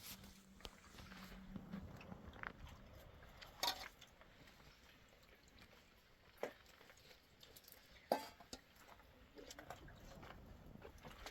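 Scattered soft clicks and knocks at irregular intervals, two of them louder, about a third of the way in and again later on.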